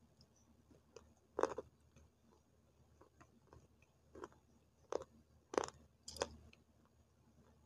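Crisp crunches of someone biting and chewing dry multani mitti (Fuller's earth) clay sticks: about five separate sharp crunches, the loudest about a second and a half in and again about five and a half seconds in.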